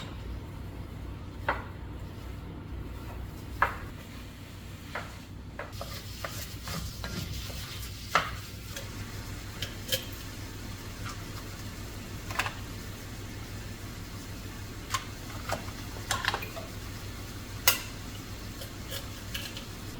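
Kitchenware being handled: scattered sharp clinks and knocks of utensils and dishes, a dozen or so spread unevenly, over a steady low hum.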